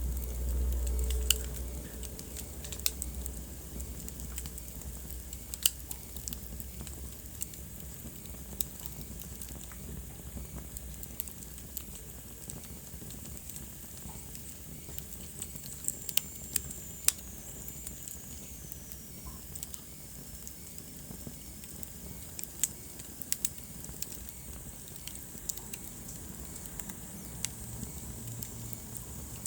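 Wood fire crackling in a fireplace, with sharp, irregular pops over a low, steady rustle of burning. Partway through, a faint high whistle slides down in pitch.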